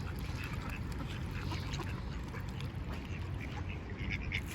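Ducks quacking in short calls scattered throughout.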